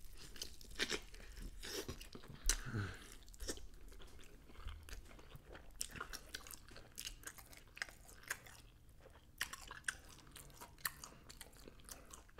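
Close-up mouth sounds of a person biting and chewing sauced fried chicken wings: wet chewing with many irregular sharp clicks and smacks.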